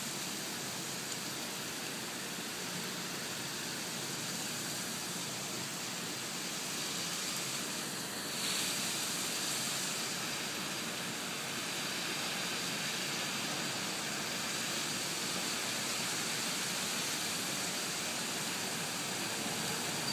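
Steady rain falling, a constant even hiss that grows a little louder about eight seconds in.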